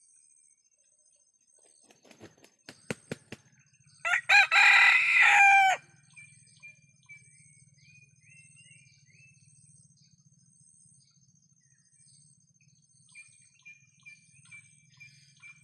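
A kampung (village) rooster beats its wings a few times, then crows once, loudly, for just under two seconds. Faint small-bird chirps follow.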